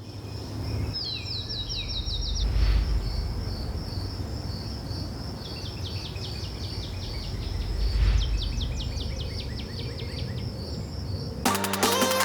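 Outdoor nature ambience: a steady, high, pulsing insect buzz with a songbird singing two fast runs of falling notes over a low rumble. Electronic music cuts in near the end.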